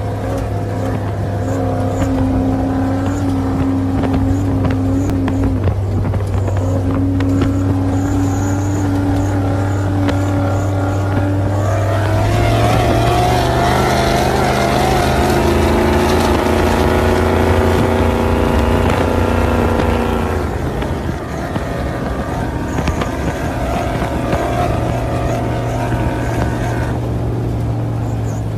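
Ford F-150 trophy truck's engine idling, then held at higher revs for several seconds around the middle before dropping back to idle.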